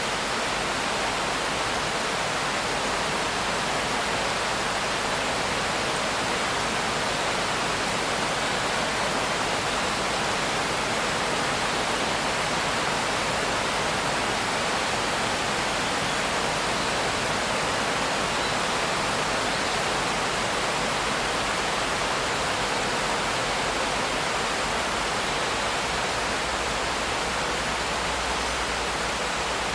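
Steady rain hiss, even and unchanging, with no single drops or thunder standing out.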